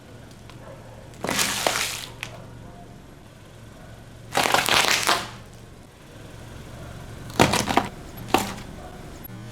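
A car tyre rolling over crunchy objects and crushing them: a crunch about a second in, another at about four and a half seconds, then sharp cracks near the end. A car engine idles in the background.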